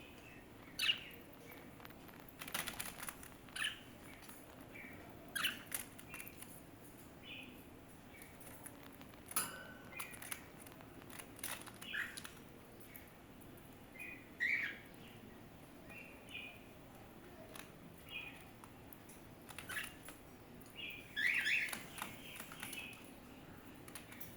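Small pet birds chirping in short, scattered calls, with sharp clicks and taps between them and a busier run of chirps near the end.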